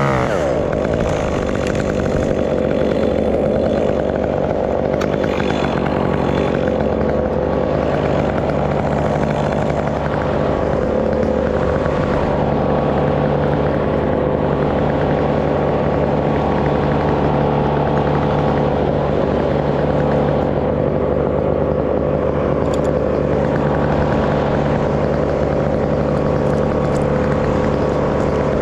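Stihl MS 201 two-stroke chainsaw running at a steady idle.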